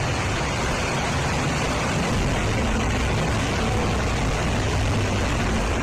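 Steady rushing noise of a flooded street, with the low rumble of vehicle engines under it.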